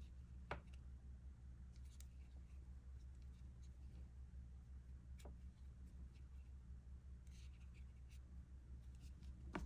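Near silence: a crochet hook faintly clicking and scratching as it pulls yarn through stitches, a handful of soft ticks over a low steady hum.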